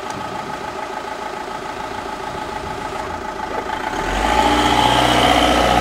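Volkswagen Tiguan 2.0 TDI four-cylinder turbodiesel idling steadily. About four seconds in it turns louder and deeper as the car gets under way.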